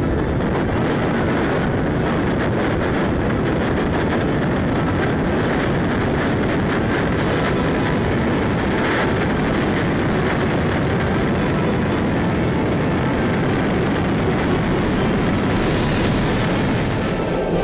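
Jet aircraft engine noise, a steady, even rush of sound with no change in pitch.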